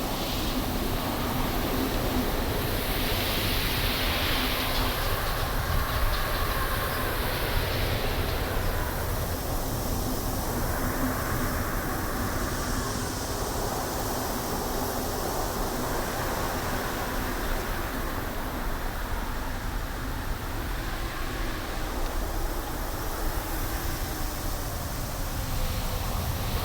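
Wind blowing through trees in gusts, the rushing swelling and easing every few seconds over a steady low rumble.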